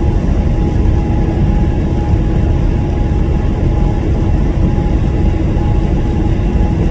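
Steady low rumble of a semi truck's engine and road noise heard from inside the cab while driving, with a faint steady hum over it.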